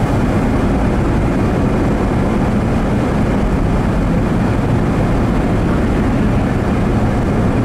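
Steady low rumble and hiss of a vehicle driving on a snowy road: engine and tyre noise, with no letup.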